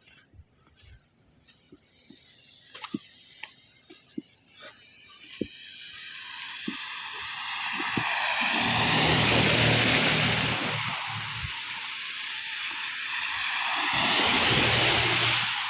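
Two cars passing one after the other on a snowy street, tyre hiss and engine hum swelling up to a peak about nine seconds in and again near the end. A few faint scattered clicks come before them in the first few seconds.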